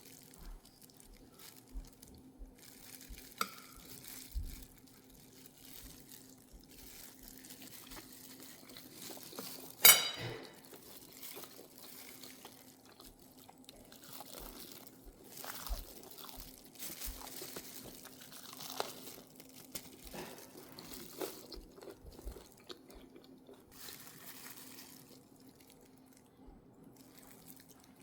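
Light crunches and clicks of food and kitchenware being handled, over a steady low hum, with one sharp knock about ten seconds in.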